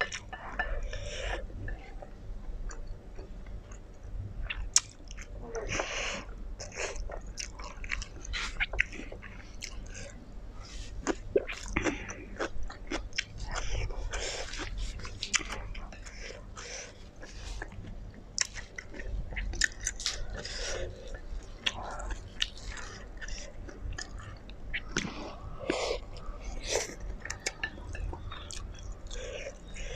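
A person chewing a mouthful of black bean noodles and fried braised pork, with many irregular mouth clicks and smacks throughout.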